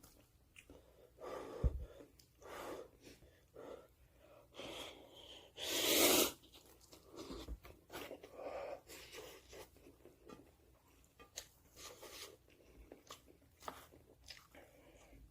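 A person eating cup ramyeon noodles close to the microphone: a run of short slurps and chewing sounds, the loudest slurp about six seconds in.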